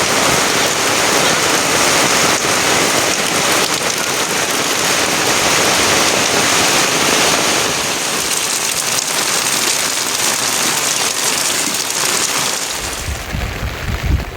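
Heavy rain falling steadily in a dense, even hiss that eases off near the end.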